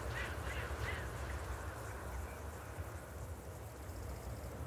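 Steady low rumble of wind on the microphones, with three short bird calls in quick succession in the first second.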